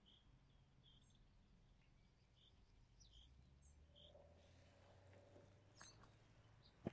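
Near silence with faint, short bird chirps repeating about once a second.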